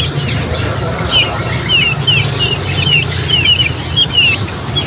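Birds chirping: short, high, falling chirps, often in quick pairs, about three a second, over a steady low hum.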